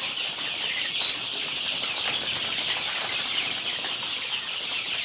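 A large flock of baladi (local-breed) chicks peeping together: a dense, steady chorus of many overlapping high cheeps.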